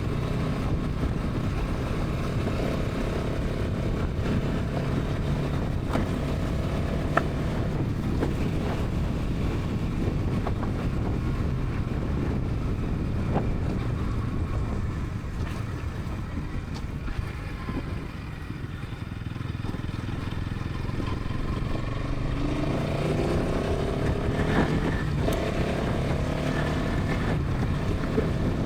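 Bajaj Pulsar NS 200's single-cylinder engine and exhaust at highway speed, with wind rushing over the microphone. The engine note fades and drops in level around the middle as the throttle eases, then climbs again in pitch near the end as the bike accelerates.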